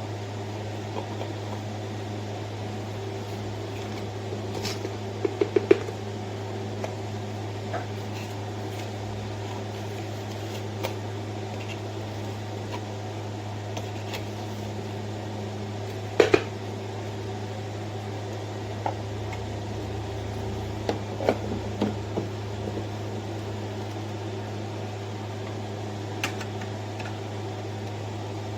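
Neretva 15-bar espresso machine's pump running with a steady buzzing hum while pulling a shot, with occasional small clicks and ticks over it.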